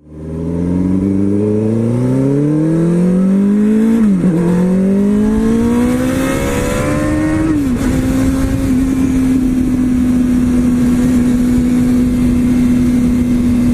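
Motorcycle engine accelerating through the gears, its pitch rising, dipping sharply at a shift about four seconds in, rising again, then settling into a steady cruise after another shift near eight seconds, over a wash of wind and road noise.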